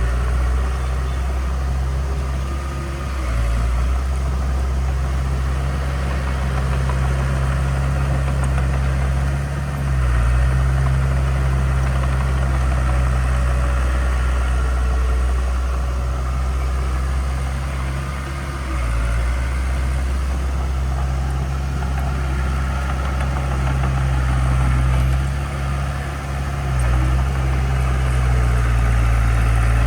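Heavy construction machine's diesel engine running steadily at a low, even pitch, with brief dips in engine note a few times.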